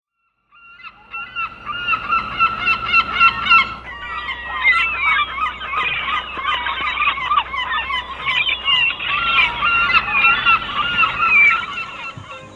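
A flock of gulls calling: many loud, overlapping honking calls, growing busier about four seconds in.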